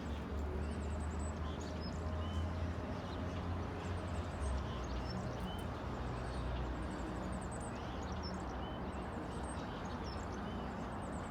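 Birds chirping in many short, scattered calls over a steady low rumble of background noise.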